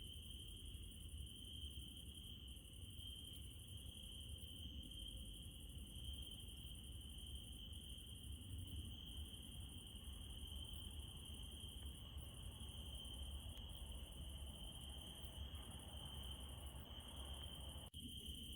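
Crickets trilling steadily at night, with a higher, thinner insect chorus that breaks off briefly every second or two and a low rumble underneath. Faint throughout, with a brief dropout near the end.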